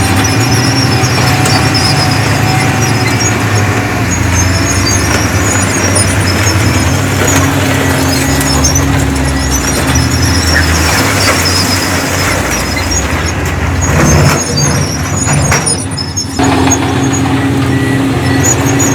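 Heavy diesel earthmoving machinery running steadily, with intermittent high squealing of the kind made by steel tracks. About 14 seconds in there are a few sharp knocks and a louder moment, followed by a brief dip.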